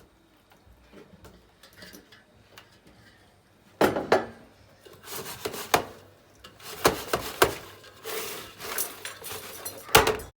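Household objects being handled: a quiet start, then from about four seconds in a run of knocks and clinks with rubbing, in the manner of dishes and utensils being moved about. The sound cuts off suddenly at the end.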